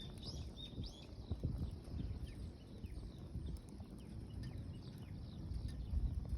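Wood campfire crackling, with irregular pops and snaps over a low rustle.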